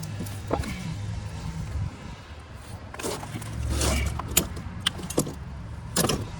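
Metal tools, bolts and brackets clinking and rattling while a new A/C compressor is fitted and its mounting bolts are started by hand. There are scattered sharp clinks, mostly in the second half, over a steady low hum.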